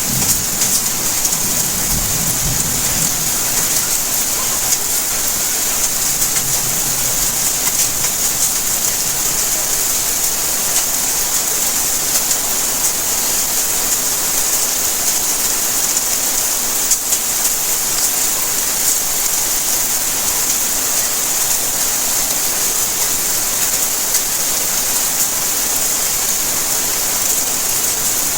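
Steady, heavy rain: a dense even hiss of falling drops with fine patter on surfaces. A low rumble of thunder dies away in the first few seconds.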